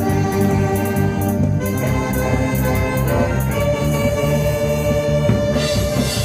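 Live instrumental music from an amateur ensemble: held melody notes over a steady bass accompaniment.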